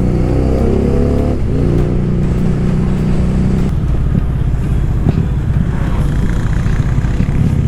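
Motorcycle engine running while riding: it rises in pitch for about the first second and a half, drops suddenly, then holds steady.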